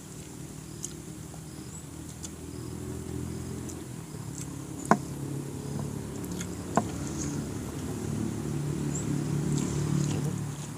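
Close-up eating sounds of a man chewing food eaten by hand, with a low rumbling mouth noise that swells near the end. Two sharp smacks come in the middle.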